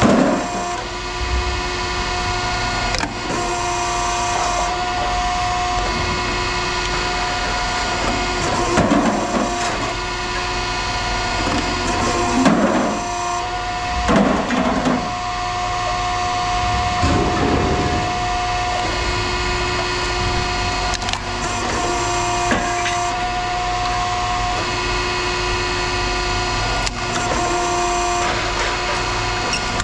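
A machine running steadily with a fixed whine that cuts in and out every few seconds. Several short, rough scraping noises come in the middle stretch.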